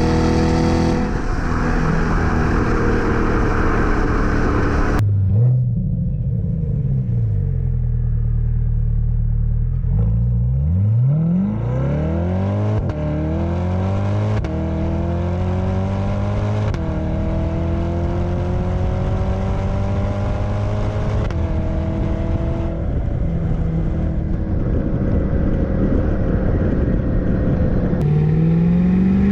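2020 C8 Corvette's V8 through a 3-inch stainless cat-back exhaust with X-pipe and factory catalytic converters. After easing off, the revs climb hard from about ten seconds in, with quick upshifts that drop the pitch three times. The engine then settles into a steady cruise, and the revs rise again near the end.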